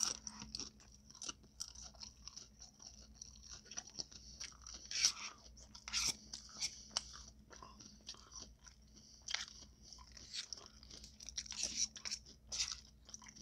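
Close-miked chewing of a taco: irregular crunches and small mouth clicks, a few louder crunches among many softer ones.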